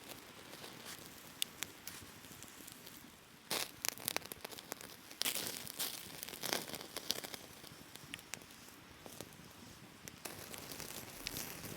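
Crinkling and tearing of dry material in two bursts, the first about three and a half seconds in and a longer one from about five to seven seconds, over a faint steady hiss.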